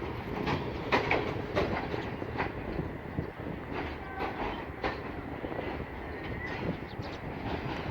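Passenger train running on the track: a steady rumble with irregular sharp clacks of wheels over rail joints.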